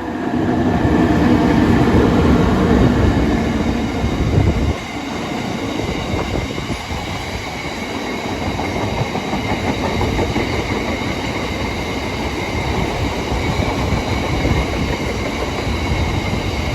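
Class 92 electric locomotive 92032 passing on a freight train. It is loudest for the first four to five seconds, with a steady hum from the locomotive. Then it drops to the steady rolling rumble of the wagons going by.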